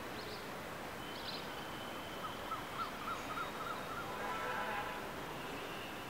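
Steady outdoor background hiss with small birds chirping: a few short high chirps in the first second or so, then a quick run of about eight short repeated notes in the middle.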